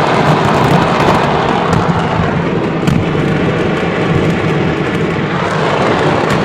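Stockpiled fireworks going off en masse in a burning market: a loud, dense, continuous rumble, with a few sharp cracks standing out, the clearest about three seconds in.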